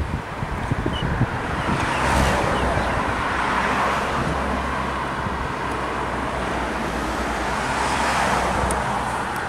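A vehicle passing by: a steady low engine drone with rushing noise that swells about two seconds in and eases off near the end.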